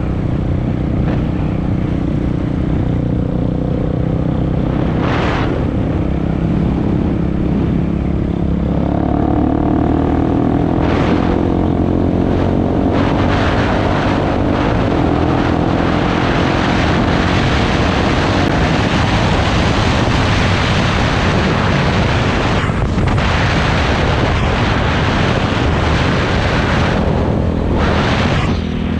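Dirt bike engine running while riding. Its pitch steps up about a third of the way in as the revs climb, with brief dips in the hiss at a few points along the way.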